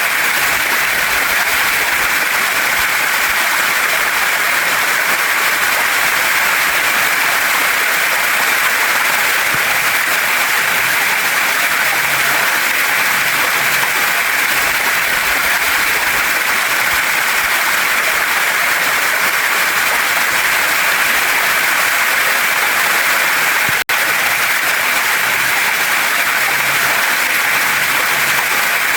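Steady rush of a waterfall and mountain stream, with the sound cutting out for a split second late on.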